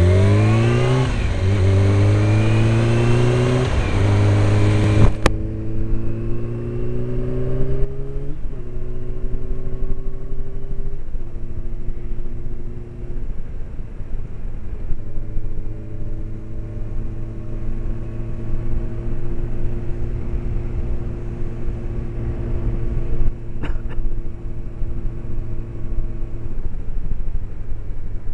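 Honda CBR600 inline-four motorcycle engine accelerating hard through the gears, its pitch climbing and dropping at each upshift over the first few seconds. It then runs steadily at cruising speed with a few more gear changes, heard from inside a helmet.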